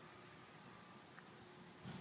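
Near silence: faint steady hiss with a low, steady hum, one faint tick about a second in, and a soft knock just before the end.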